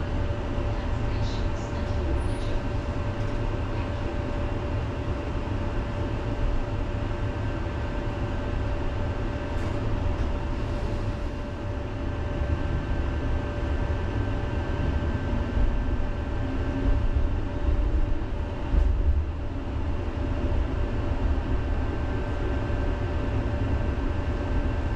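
Electric city tram running along its rails, heard from inside the car: a steady low rumble with a constant electric hum. The rumble grows louder for a few seconds about two-thirds of the way through.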